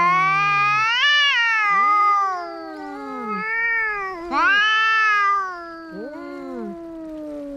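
Two cats caterwauling at each other in a fight standoff. Two long, wavering high-pitched yowls overlap a lower, drawn-out yowl that slowly falls in pitch.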